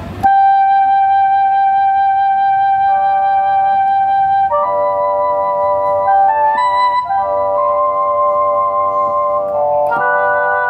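Yamaha CK61 stage keyboard playing a wind-instrument voice: one long held note that starts suddenly, a second note joining below it, then chords with a moving melody from about four and a half seconds in.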